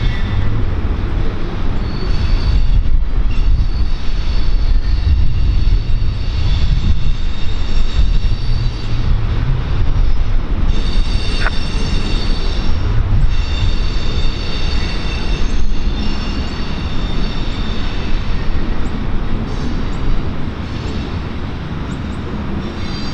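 Norfolk Southern intermodal freight train cars rolling past close by, a steady heavy rumble of steel wheels on rail. High-pitched wheel squeal comes and goes over it.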